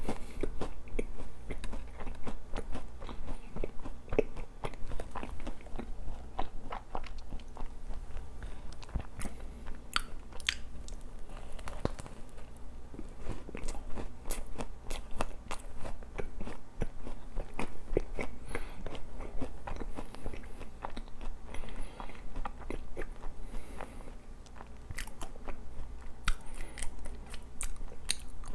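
Close-up chewing of a chocolate-coated, cream-filled doughnut: steady crunching and biting with many small, sharp mouth clicks.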